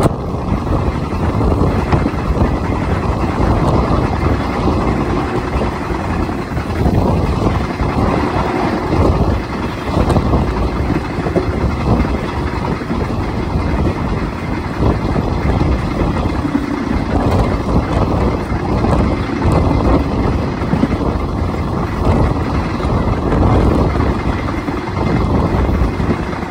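A moving train running steadily, with a continuous loud rumble.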